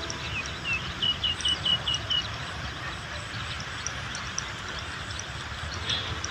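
Rural outdoor ambience: a small bird gives a quick run of about eight short chirps in the first two seconds, over a steady background hiss with faint high ticks.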